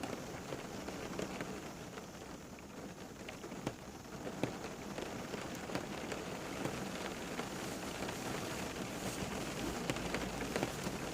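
Steady rain falling, a continuous hiss with many individual drops ticking and pattering on a surface.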